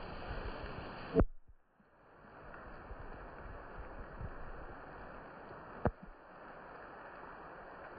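Light rain falling as a steady hiss with soft low patter. About a second in a sharp knock cuts in, the sound drops almost to nothing and then fades back in; another short knock comes near six seconds.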